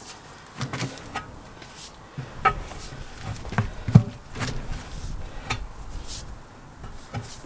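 Tyre bars knocking and clicking against a wheel rim while the bead of a lubed mud-terrain tyre is levered over the rim by hand, with rubber rubbing and scraping between the knocks; the loudest knock comes about four seconds in.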